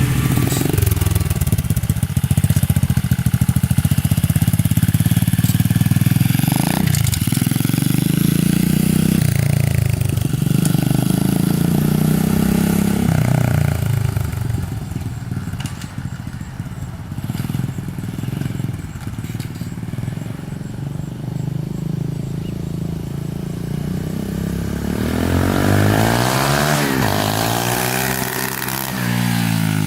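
SSR 125 pit bike's single-cylinder four-stroke engine revving under way as it is ridden off. It fades in the middle and returns near the end, passing close by with its pitch rising and then dropping. This is a test ride with the carb's mixture screw one turn out, and the engine still needs a little tuning.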